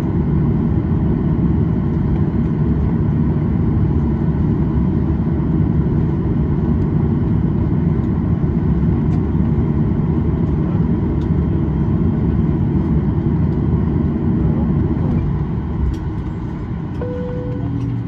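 Cabin noise in a Boeing 737-800 taxiing after landing: a steady rumble from its CFM56 engines at taxi power with airflow hiss. Near the end the rumble eases and a few steady tones come in.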